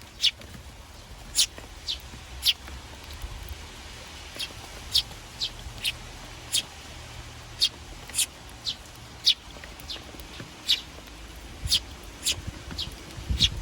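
Eurasian tree sparrows chirping: short, sharp chirps repeated at irregular intervals, roughly one or two a second.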